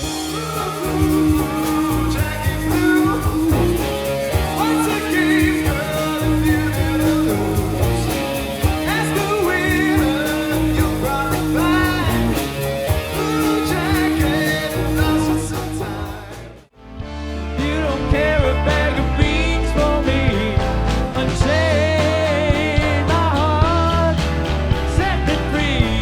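Classic rock cover band playing live. The music cuts out briefly about two-thirds of the way through, and a different song starts.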